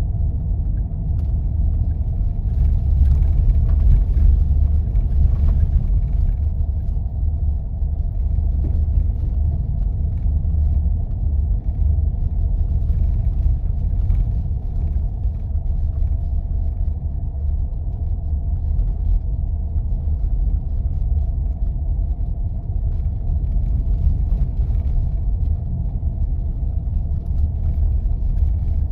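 Jeep driving on snow-covered roads: a steady low rumble of engine and tyres, a little louder for a few seconds near the start.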